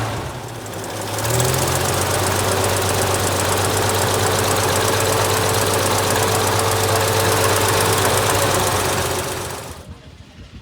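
Military vehicle engine running loudly and steadily, picking up slightly about a second in, then cutting off abruptly near the end.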